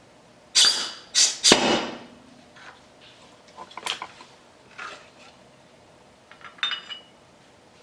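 Metal tools and parts clattering and clinking as they are handled and set down: three loud clatters in the first two seconds, then a few lighter clinks.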